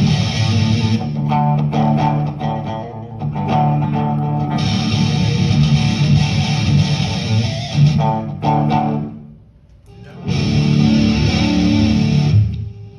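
Electric guitar played through a distorted amp channel: heavy sustained chords alternating with sparser picked notes, with a short break about two-thirds of the way in. It stops just before the end.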